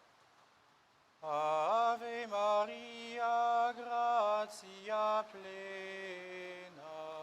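A man's voice chanting a prayer on held notes that step up and down, starting about a second in after faint background hiss.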